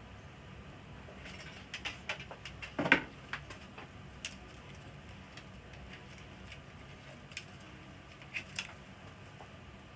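Scattered light clicks and taps, with the loudest knock about three seconds in, over a faint steady background hum.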